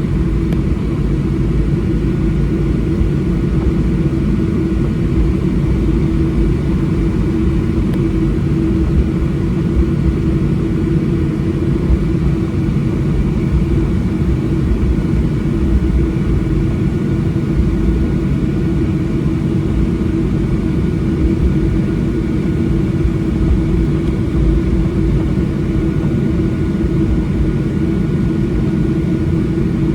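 Boeing 737-800's CFM56 jet engines heard from inside the cabin: a loud, steady rumble with a steady hum over it.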